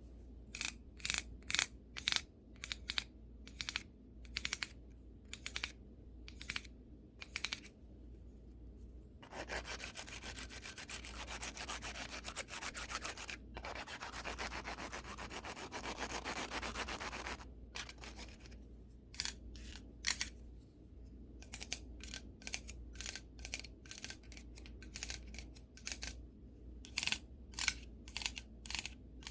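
Brush bristles swept hard and fast across the camera lens and microphone: quick separate strokes, then about eight seconds of rapid continuous scrubbing in the middle, then separate strokes again.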